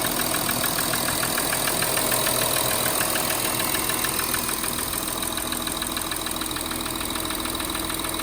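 Audi Q7 3.0 TDI V6 diesel engine idling with a fast, even ticking from the top end, stronger on the driver's side, which goes away once the engine reaches operating temperature. Swapping the injectors side to side and fitting new valve lifters and rockers have not changed the tick.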